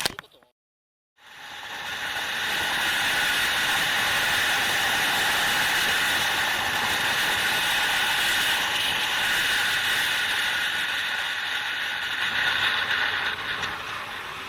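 Motorcycle on the move: a steady rush of wind and engine noise that fades in about a second in, after a moment of silence, and then holds steady.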